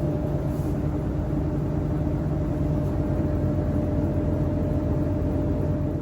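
Sharp ESX159 15 kg washing machine in its spin cycle: a steady hum from the spinning drum with a constant motor whine over it.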